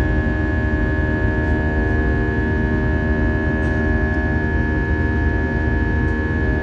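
Airbus A320-232's IAE V2500 engines heard inside the cabin, a steady loud rush with a high steady whine and several lower steady hums, typical of engines held at climb power.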